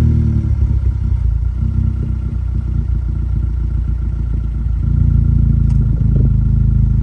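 Honda Civic Type R FK8's turbocharged 2.0-litre four-cylinder idling just after start-up, heard close to the tips of a full titanium cat-back exhaust with two resonators and two mufflers. The idle is steady and fairly subdued, stepping up a little in level about five seconds in.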